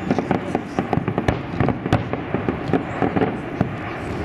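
Fireworks display: aerial shells bursting in quick succession, with sharp bangs about every half second over a dense stream of pops and crackles.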